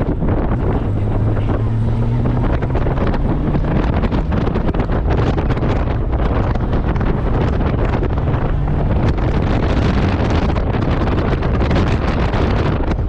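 Honda Gold Wing motorcycle engine running steadily under way, with heavy wind buffeting the microphone.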